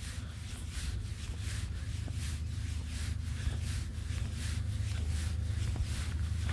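Footsteps crunching at a steady walking pace, about three a second, over a low rumble that slowly grows louder.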